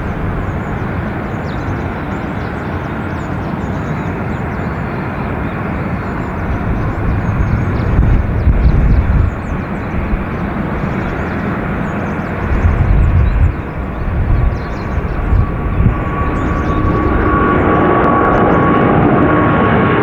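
Boeing 777 twin-jet engines running with a steady roar, with heavy low rumbling surges in places. Near the end a steady turbine whine comes in and the roar grows louder.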